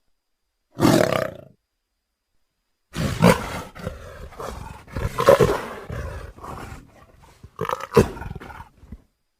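Indian leopard vocalising: a short harsh call about a second in, then after a pause a run of rough roars and growls with several loud peaks.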